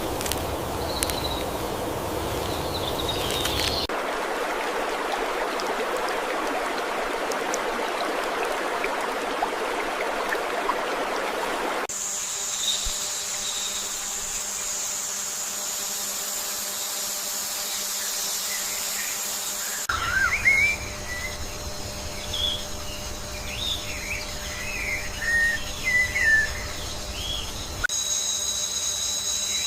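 Natural outdoor ambience spliced together in abrupt segments. A steady rushing hiss gives way to high, steady insect trilling, then to scattered bird chirps and calls, then to steady insect tones again.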